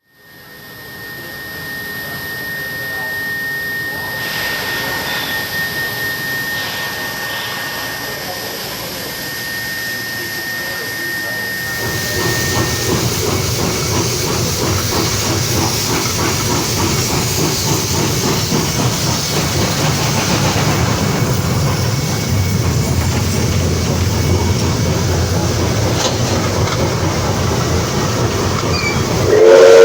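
Cab sound of NSW 59 class steam locomotive 5917: a steady hiss of steam over the locomotive's running noise. A thin high tone sounds through the first twelve seconds or so. After that the sound grows louder and heavier, with a low rumble.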